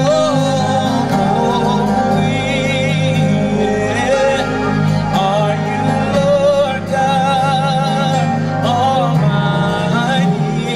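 Live gospel worship music: a singer holds long, wavering notes over sustained band chords and bass.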